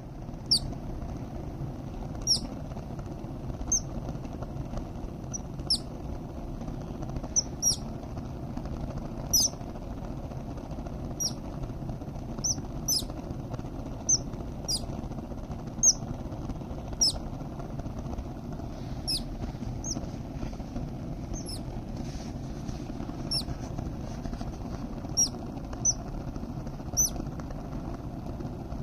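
Parrot chicks giving short, high chirps, one every second or two, over a steady low background hum.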